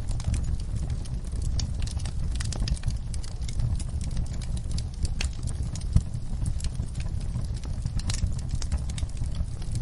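Wood fire crackling in a fireplace: many sharp irregular pops and snaps over a steady low rumble of burning, with one louder pop about six seconds in.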